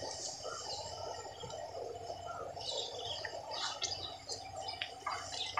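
Small birds chirping intermittently over steady outdoor background noise.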